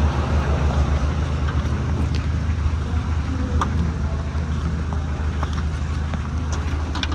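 A motor vehicle's engine running steadily, a low hum with rough noise over it.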